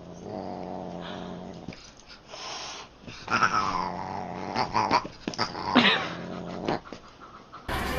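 A cat growling low and steadily in two long stretches, broken by short sharp cries, the growl of an angry cat.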